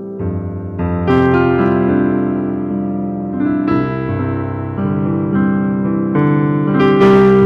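Slow instrumental keyboard music: sustained chords played one after another, each change about a second or so apart, with no singing.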